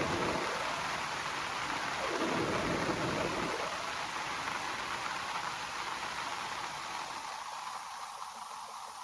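Steady rain pattering on broad banana leaves, a dense even hiss, with two deep swells of thunder rumbling underneath, one at the start and one about two to three and a half seconds in. The rain slowly fades toward the end.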